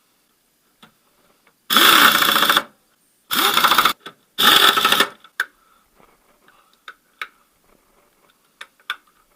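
A power tool running in three short bursts, spinning up at the start of each, as it drives in the engine mount bolts. Some light clicks of tools and metal parts follow.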